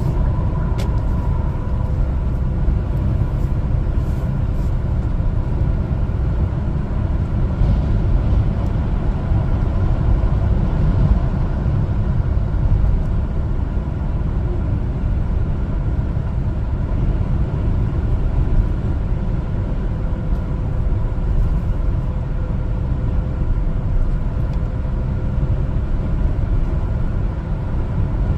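A 1-ton LPG cargo truck driving at steady speed: a constant low engine and road rumble with a faint steady whine above it.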